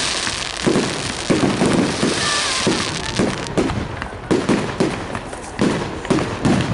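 Fireworks display going off: a rapid, irregular run of bangs and crackles, about two a second, over a steady hiss.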